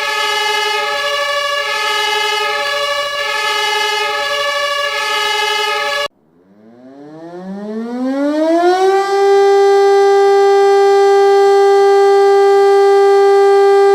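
A steady siren tone with several pitches, pulsing slightly, cuts off abruptly about six seconds in. A second siren then winds up from a low pitch, rising for about three seconds, and holds a steady high tone, like a motor-driven air-raid siren.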